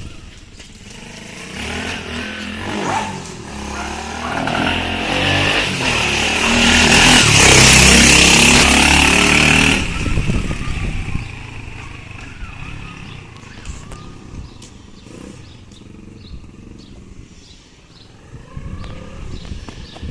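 110 cc four-stroke pit bike engine on a motorised bicycle running, getting louder to a peak about eight seconds in and then falling back to a lower, quieter run. It is one of the engine's first runs and still untuned.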